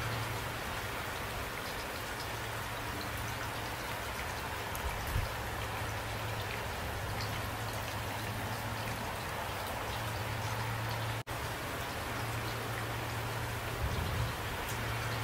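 Steady rain falling at night, an even hiss of drops over a constant low hum. A couple of brief low thumps come about five seconds in and again near the end, and the sound cuts out for an instant about eleven seconds in.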